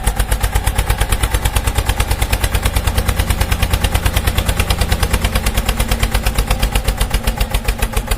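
Small engine running with a fast, even putter of about ten beats a second.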